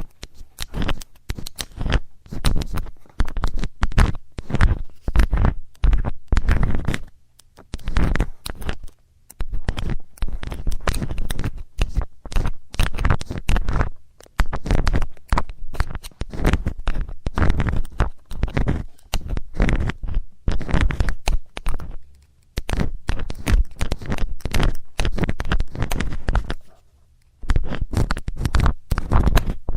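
ASMR ear cleaning with a metal tool: rapid scratching, scraping and rubbing right against the microphone, in dense runs broken by a few short pauses.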